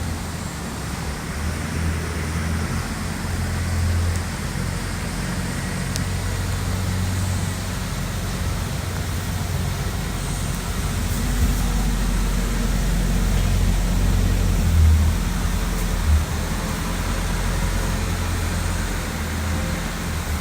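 Hurricane Sundeck Sport 201 deck boat running on the water: a steady low rumble of engine and hull noise under a hiss, with a couple of brief low bumps near the end.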